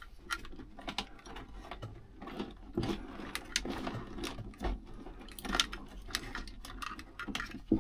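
Irregular small clicks and taps of hand tools and metal parts being handled, scattered unevenly with no steady rhythm.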